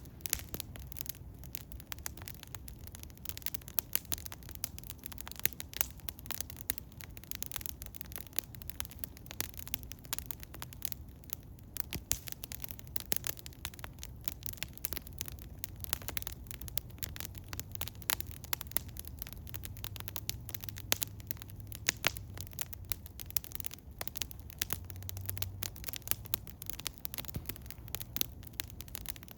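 Eastern hemlock wood fire crackling: irregular sharp pops and snaps, several a second, over a low steady rumble.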